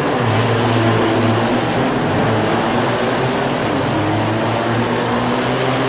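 Semi truck's diesel engine running loud and steady, with a high thin whistle held over it.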